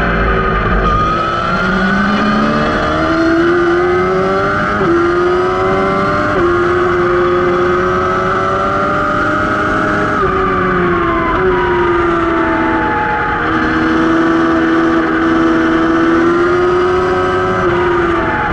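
Racing motorcycle engine under hard riding, its pitch climbing and falling with several sudden steps at gear changes.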